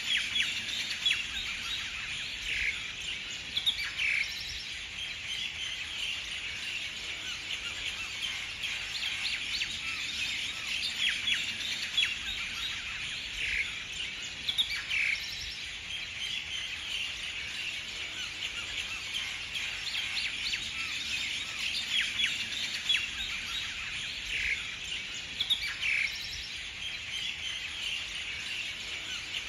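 Birds chirping in a dense, steady chorus, with louder calls standing out every few seconds.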